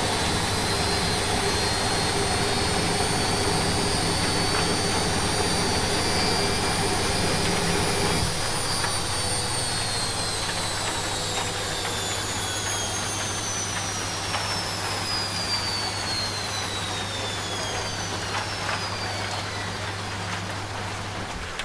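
Washing machine running with a steady motor hum and high whine; the whine falls steadily in pitch and the hum lightens about a third of the way in as the drum slows down.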